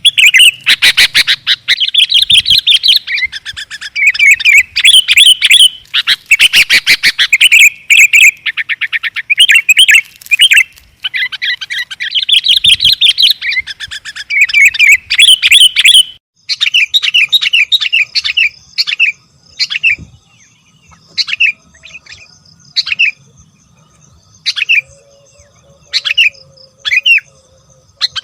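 Sooty-headed bulbuls and yellow-vented bulbuls calling noisily in a bird-lure recording. There are dense runs of rapid chirps and rattling trills for about the first sixteen seconds, then sparser, separate calls after a short break.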